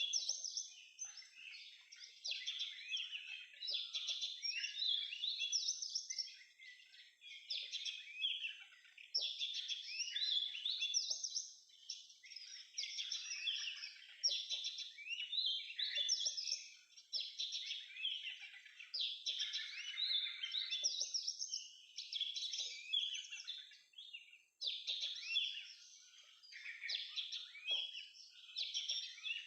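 Oriental magpie-robin singing: a long run of varied, high, sliding whistled phrases with only brief pauses.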